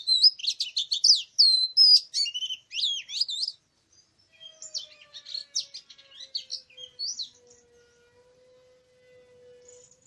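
Oriental magpie-robin singing: a loud run of varied clear whistles that glide up and down, breaking off about three and a half seconds in, then resuming more quietly for a few seconds.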